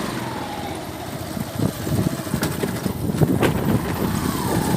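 Motor vehicle running on the road, with a steady low rumble and irregular knocks and rattles from about a second and a half in.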